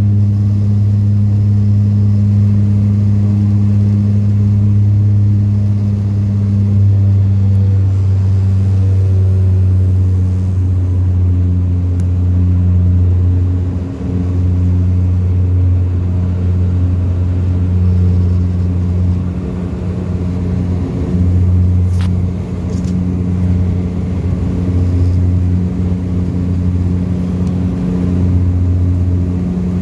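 Propeller drone of an Austrian Airlines Dash 8-400 turboprop heard inside the cabin: a loud, steady low hum with an overtone, dropping a little in pitch about ten seconds in.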